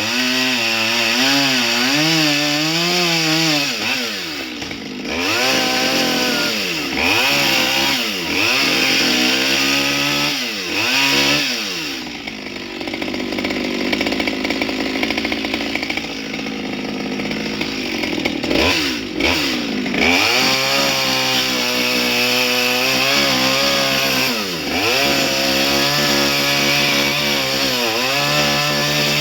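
Two-stroke chainsaw carving wood, the throttle repeatedly eased off and opened again so the engine pitch dips and climbs several times. For a few seconds in the middle it holds steadier under load while cutting.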